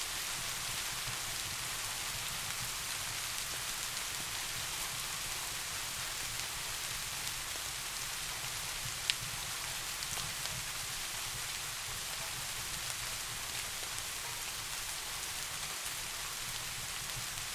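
Steady soft rain, an even hiss of falling drops, with one sharp click about nine seconds in.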